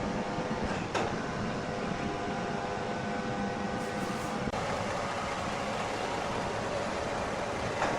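Wood-processing machinery running with a steady mechanical noise. A sharp knock comes about a second in, followed by a whine that holds for a few seconds and then stops. Another knock comes near the end.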